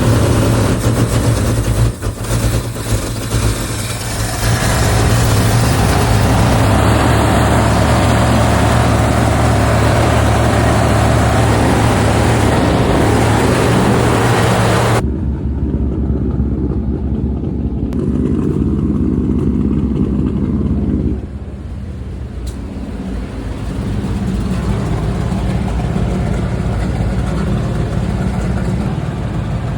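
The engine of a 1973 Ford F-250 pickup running, loud and steady. About halfway through, the sound changes abruptly to a duller, lower rumble.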